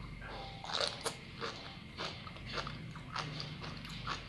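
Close-up chewing of sea grapes (grape seaweed): a run of short, wet clicks and pops, roughly two a second, as the small beads burst between the teeth.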